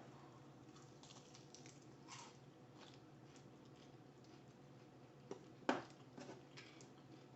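Faint eating sounds: quiet chewing with small scattered clicks from mouths and fingers on coffee chicken wings, and one sharper click or crunch a little past halfway.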